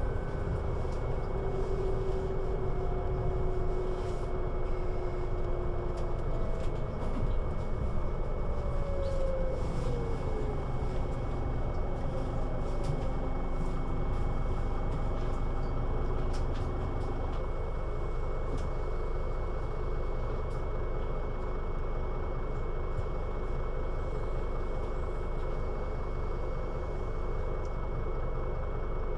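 Scania Citywide LFA articulated bus (CN320UA) driving, its engine and drivetrain running steadily. Partway through, a whine falls in pitch as the bus slows.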